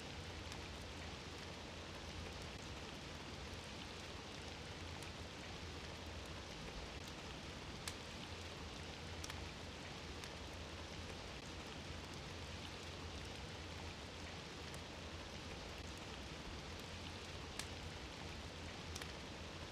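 Fire burning in a fireplace: a steady soft hiss with a few sharp crackles and pops scattered through it, over a low steady hum.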